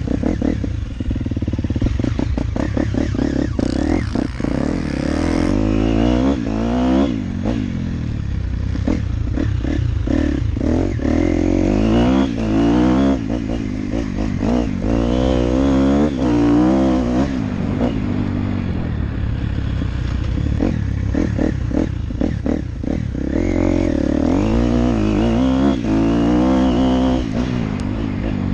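Motocross dirt bike engine revving up and dropping back again and again as the bike is ridden, with frequent knocks and clatter.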